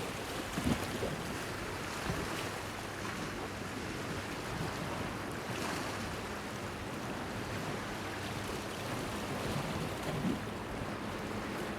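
Small sea waves lapping and washing against a pier. The wash is steady, with a couple of brief louder splashes, one about a second in and one near the end.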